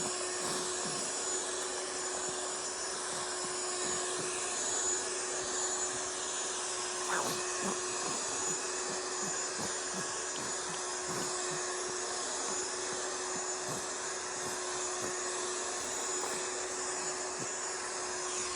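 Steady vacuum cleaner noise played as white noise to lull a baby to sleep: an even whooshing hum with a constant motor whine and no change in pitch.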